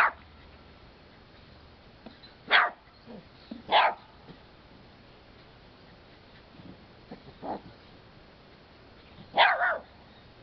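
Small Yorkie-poo dog barking at a pet turtle: single sharp barks spaced a second or more apart, one softer bark in the middle and a quick double bark near the end.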